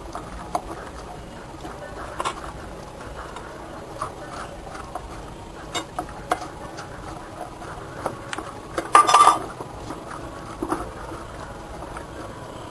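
Kitchen utensils and dishes clinking and knocking now and then, with a louder burst of clatter about nine seconds in.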